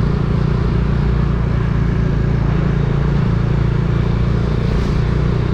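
Steady low drone of a running vehicle engine, with road and wind noise, from a moving vehicle.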